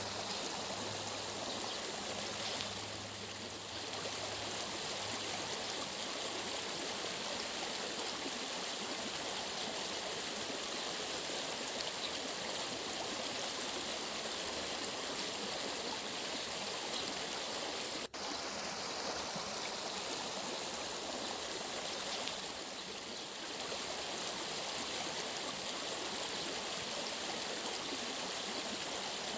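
Steady rushing of running water from a stream, an even unbroken wash that drops out for an instant about two-thirds of the way through.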